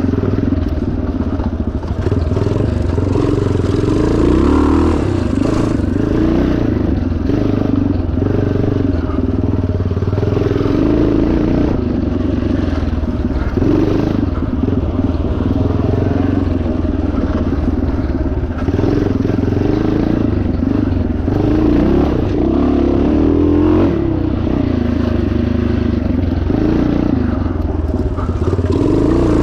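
1977 Yamaha TT500's single-cylinder four-stroke engine running hard while the motorcycle is ridden, its revs rising and falling continuously, with some rattling.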